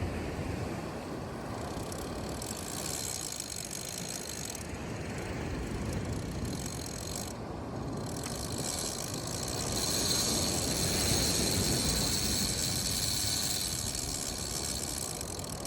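Fishing reel drag running continuously as a hooked shark strips line off the spool, getting louder about ten seconds in.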